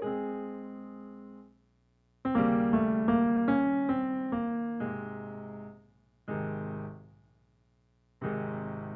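Solo piano playing slow phrases of chords and melody, each phrase dying away into a short silence before the next begins; the last chord, near the end, is left ringing.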